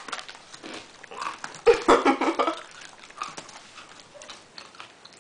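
Close-up crunching of a Nature Valley Oats 'n Honey granola bar being bitten and chewed, with the foil wrapper crinkling: a run of small crackles and clicks. The crunching is loudest for about a second, about two seconds in.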